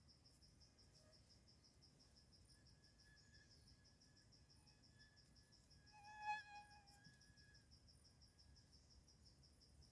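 An insect trills steadily in rapid, even pulses. About six seconds in, a short pitched call with overtones sounds once, louder than the trill.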